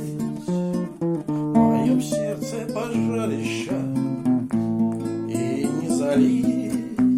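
Acoustic guitar strummed and picked, playing a Russian romance with chords changing every second or so.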